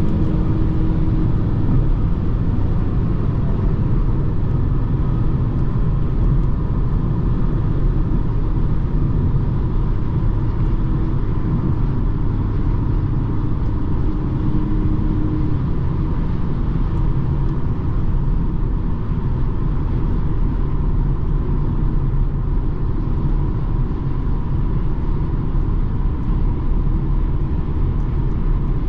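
Steady driving noise of a BMW 220d xDrive, a four-cylinder diesel car: a constant low rumble of engine and tyres on the road, with a faint steady hum above it.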